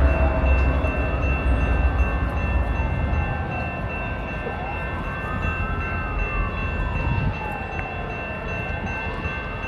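A siren wailing, its pitch rising and falling slowly about once every four seconds, over the low rumble of a train that fades away over the first few seconds.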